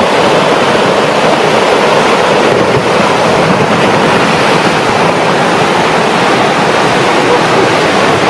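Loud, steady roar of a mountain slide: a mass of rock or snow pouring down a mountainside, recorded close by with wind noise on the microphone.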